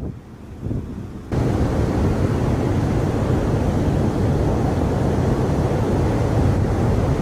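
Strong hurricane wind buffeting the microphone over the sound of surf. After a quieter first second the noise jumps up suddenly and then holds steady and loud.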